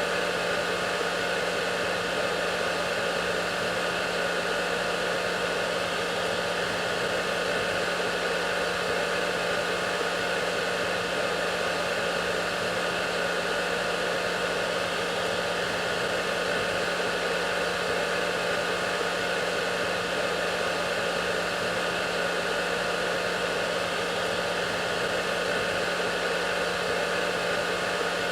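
Hair dryer running steadily: a constant hiss of airflow with a steady motor hum underneath, unchanging in level.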